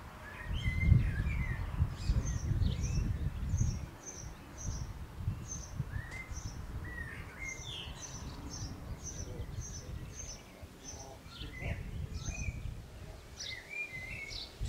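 Birds chirping: a quick run of short high chirps with lower calls among them, over a low rumble that is strongest in the first few seconds.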